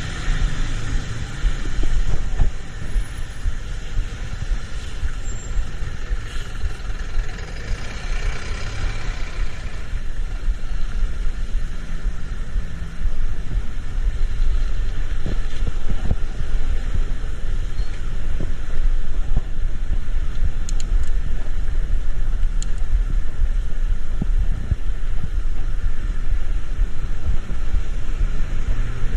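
Road vehicle driving, heard as a steady low engine and road rumble, which gets louder about 13 seconds in.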